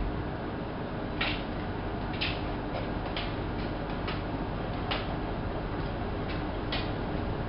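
Hanseatic HWM814A3D front-loading washing machine running a wash cycle: a steady motor hum with about ten irregular clicks and swishes as the load tumbles in the drum.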